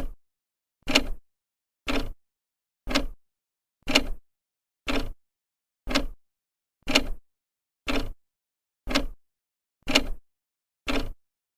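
Old clock's second hand ticking steadily, one sharp tick each second.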